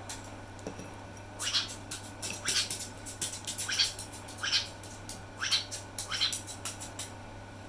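Black-headed caique parrot giving a run of short, shrill calls, about one a second, with sharp clicks among them.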